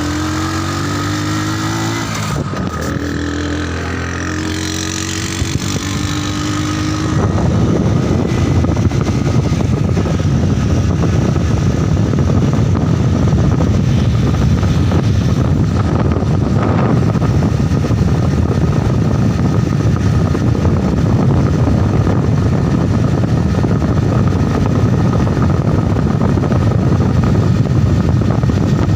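Motorcycle engine running while being ridden, its pitch climbing as it speeds up over the first few seconds. It then settles into a steady, heavy low rumble.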